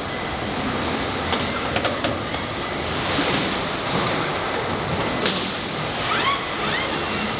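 Factory-floor din of a car body shop's robotic assembly line: steady machinery noise with a few sharp snaps from the welding robots, and two short rising whines near the end.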